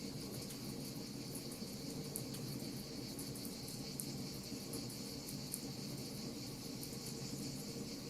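Wood fire crackling with scattered sharp pops, over a steady high cricket trill.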